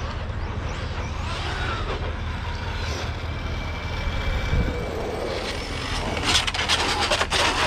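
Electric RC cars running on pavement, their motors whining in short rising and falling glides over a steady low rumble. From about six seconds a dense, louder crackle of scrapes and clicks sets in, as a car skids and scrabbles across the asphalt.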